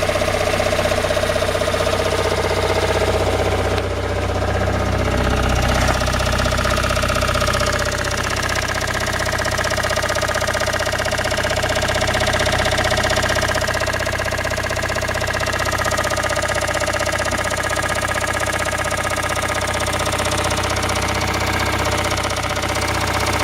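Toyota 5E-FE 1.5-litre four-cylinder engine running steadily with a knock that appeared after the engine was repaired and reassembled.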